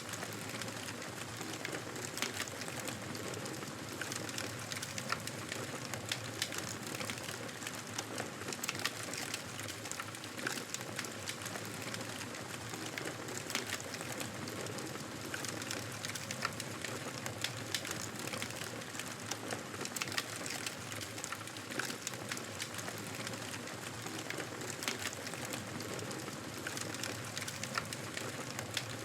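Fire burning in a fireplace: a steady hiss of flames with frequent small crackles and pops.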